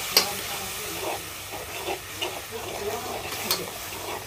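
Spice paste with yogurt sizzling in a pot over a wood fire as a spoon stirs it, with two sharp clicks, one just after the start and one about three and a half seconds in.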